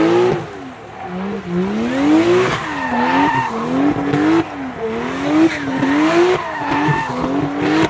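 Toyota Corolla DX's 4A-GE 20-valve four-cylinder engine revving hard, its pitch climbing and dropping again and again about once a second as the throttle is worked through a drift, with tyres squealing.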